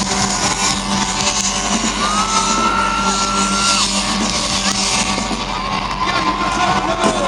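Live band music played loud, with sung notes held over the band and a crowd singing and whooping along.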